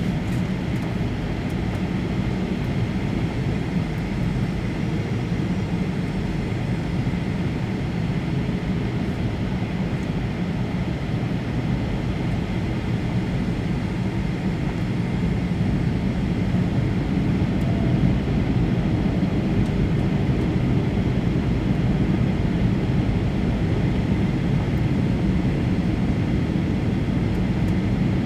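Steady cabin noise inside a Boeing 737-800 in flight: a deep, even rush of airflow with the hum of its CFM56 engines and a faint steady whine above, growing slightly louder about halfway through.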